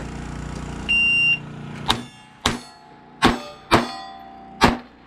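A shot timer gives one short, high beep, then a .22 LR Glock pistol fires five quick shots at uneven spacing, about half a second to a second apart, and the hit steel targets ring after the shots.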